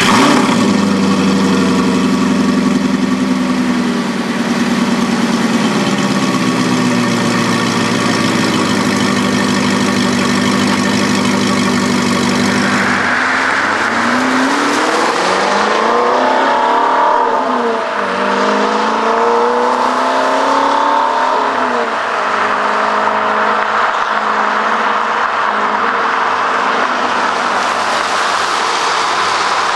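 Audi R8's 4.2-litre V8 with an aftermarket Tubi exhaust idling just after startup. About 13 seconds in, the car pulls away and accelerates, the exhaust note rising in pitch several times, then runs on steadily as it drives off.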